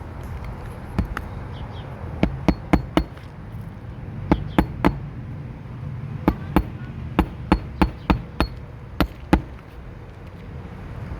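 Hammer driving roofing nails into a replacement asphalt shingle: sharp strikes in quick groups of two to four, about sixteen in all.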